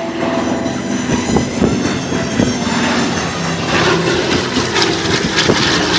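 Piston-engine propeller warbird passing the crowd on a flyby, a loud steady engine drone with propeller noise whose pitch shifts slightly about two-thirds of the way through.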